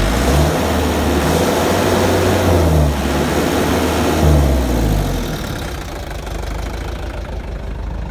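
Mitsubishi FG 4x4 truck's diesel engine revved up and down a couple of times, then dropping back to a steady idle about five seconds in. The truck has no tailpipe fitted.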